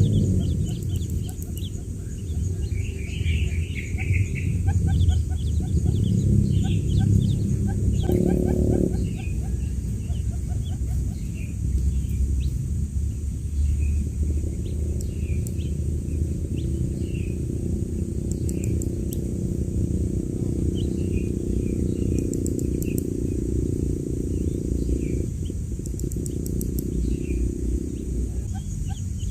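Quail chicks peeping in many short, high chirps over a loud, steady low hum.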